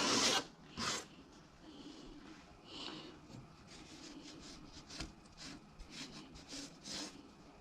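Faint, irregular scraping and rubbing strokes of hand work on a piece of fatwood, coming about every half second in the second half. A short breathy rush is heard at the very start.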